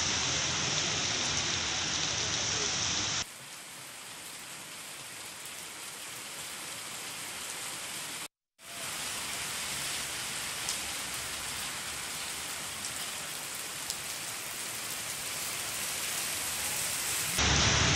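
Steady hiss of heavy rain falling on a waterlogged street. The sound changes abruptly and gets quieter about three seconds in, drops out briefly a little past the middle, and grows louder again near the end.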